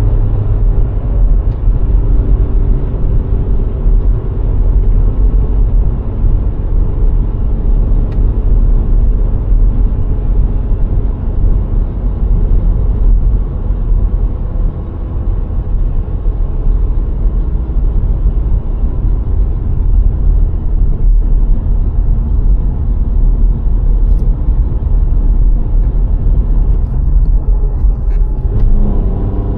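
A VW Golf IV 1.6 driving along a road: a steady low rumble of tyres, engine and wind, with a faint engine hum showing through near the start and again near the end.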